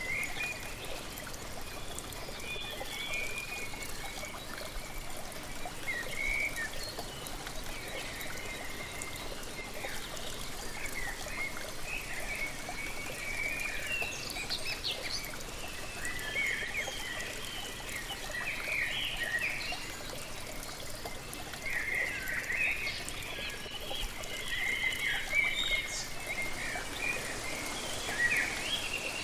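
Waterfall with a steady rush of falling water, and birds chirping and singing over it in short, repeated calls that grow busier in the second half.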